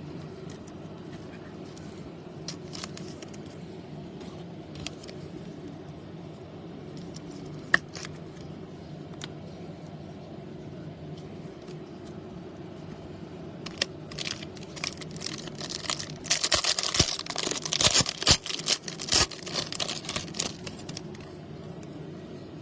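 Handling of baseball cards and packs: scattered light clicks and taps, then several seconds of dense crinkling and crackling in the second half, typical of a foil trading-card pack wrapper being torn open and crumpled. A steady low hum runs underneath.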